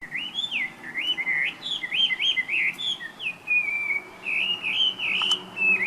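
Chinese hwamei (Garrulax canorus) singing: a fast, varied run of whistled phrases that swoop up and down, with one longer, slowly falling note in the middle.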